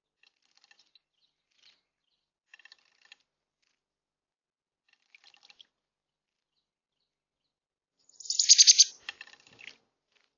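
Small birds chirping: a few faint, short high chirps every second or two, then a louder, brief high-pitched burst about eight seconds in, lasting about a second.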